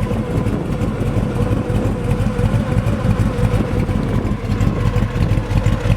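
A 383 stroker V8 with dual four-barrel carburettors and long-tube headers idling steadily.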